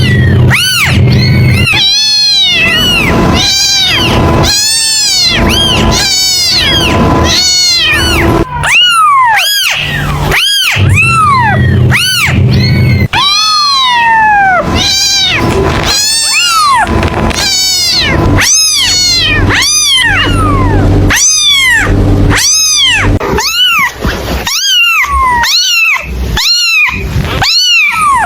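Kittens meowing over and over in short, high, rising-and-falling calls, about one or two a second, with a longer falling meow about halfway through.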